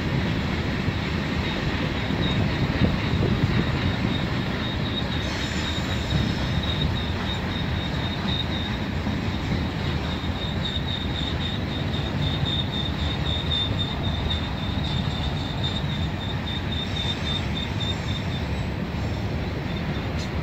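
Freight train cars rolling steadily past, wheels rumbling on the rails. A thin, high wheel squeal runs over the rumble from about two seconds in until near the end.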